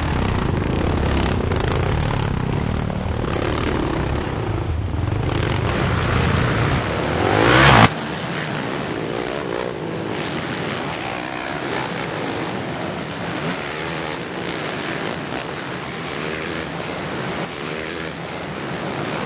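Four-stroke motocross dirt bikes racing, their engines revving up and down. About eight seconds in the sound cuts suddenly from a loud, bass-heavy pass to lighter engine noise that keeps rising and falling in pitch.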